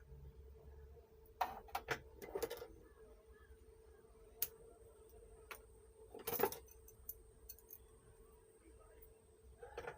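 Scattered clicks and knocks of small hard objects being handled, a cluster of them about one and a half to two and a half seconds in, a sharp one about halfway, and a few more near the end, over a faint steady hum.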